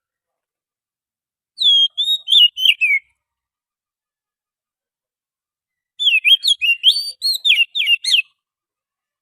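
Wild oriental magpie-robin (kacer) singing: two short phrases of rapid, varied whistled notes sliding up and down. The first lasts about a second and a half, and a longer one comes a few seconds later.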